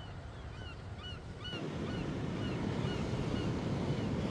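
Surf on the shore, its low rush swelling about one and a half seconds in, while a bird gives a short, high chirp about twice a second.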